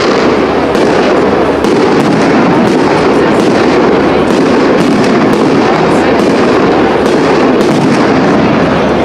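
Fireworks display: a rapid, continuous run of shell bursts and crackling, many sharp reports a second over a dense, steady din.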